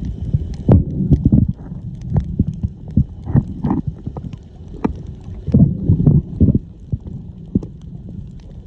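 Muffled underwater noise from water churning around the camera, with irregular low thumps and scattered sharp clicks.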